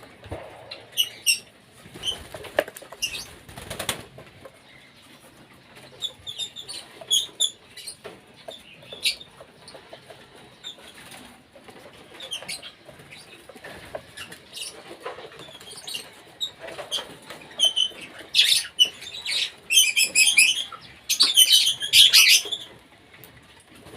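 Cockatiels in a colony aviary: wings flap a few seconds in, then short chirping calls come on and off. The calls get louder and faster near the end.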